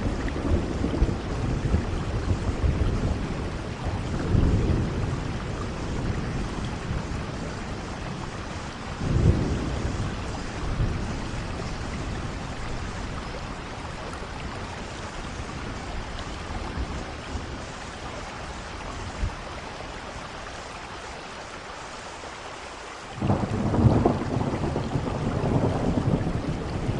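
Steady rain falling, with thunder rumbling several times. The loudest rumble begins abruptly near the end and runs on.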